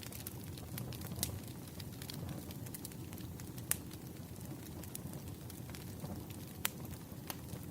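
Fireplace fire crackling: a steady low rumble of flames with irregular sharp pops, the strongest about halfway through.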